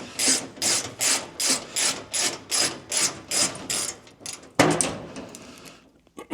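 A rhythmic scraping or crunching, about three strokes a second, stopping about four seconds in, followed by a single sharp knock.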